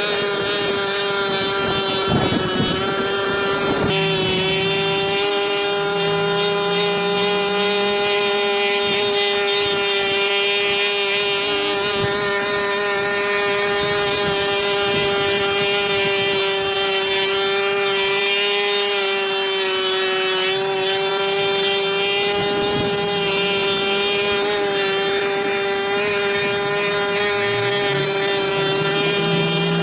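Pressure washer running steadily: a constant motor drone with a fixed whine and its overtones, with a couple of brief low rising tones.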